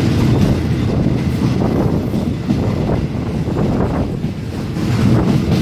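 Steady low rumble of a train running, heard from an open carriage window, with wind buffeting the microphone.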